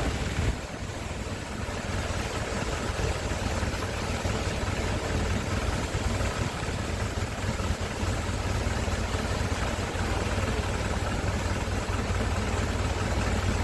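Heavy rain falling in a steady hiss, over a deep, constant rumble.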